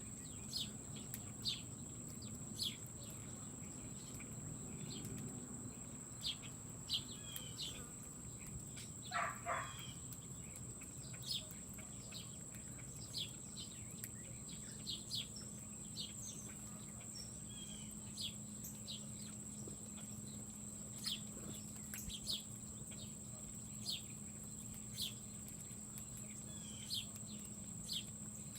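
Small birds chirping at a feeder: short high chirps every second or so, with one lower call about nine seconds in. A steady high-pitched whine runs underneath.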